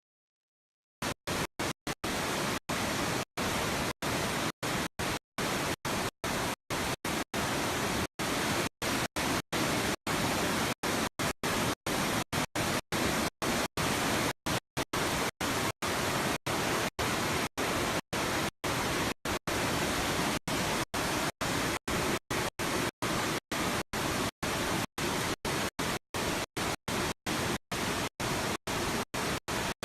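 Loud, even static hiss across all pitches, starting abruptly about a second in and chopped by many sudden, irregular dropouts to dead silence: a glitched audio track rather than any real-world sound.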